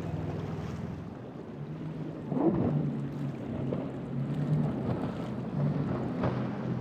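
Boat motor running, a steady low drone that gets louder about two seconds in, with wind noise on the microphone.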